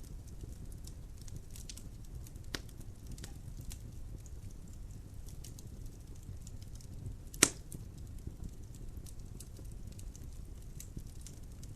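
Logs burning in a fireplace: a low steady rumble of flame with scattered small crackles, a sharper snap about two and a half seconds in and one loud pop about halfway through.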